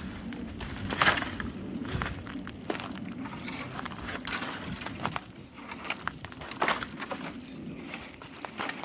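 Irregular crunching and cracking, a string of sharp snaps and clicks at uneven intervals, loudest about a second in and again near seven seconds.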